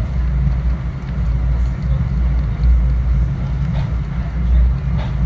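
Metro-North commuter train running, heard on board: a steady low rumble with a few faint clicks.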